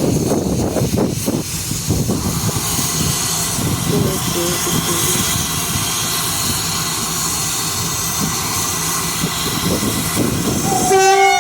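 Steam and diesel double-header train running with a steady hiss and rumble, and a short whistle blast about a second before the end.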